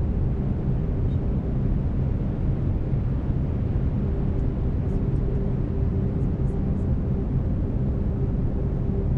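Steady brown noise: an even, deep rushing hiss, heaviest in the bass, with faint steady tones underneath.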